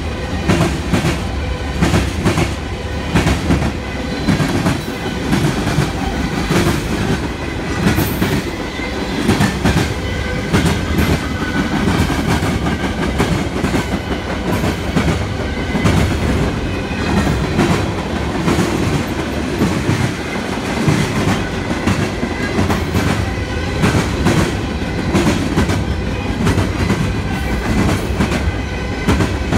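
Freight train of open-top freight cars rolling past close by: loud, steady wheel rumble with the clickety-clack of wheels over rail joints repeating throughout.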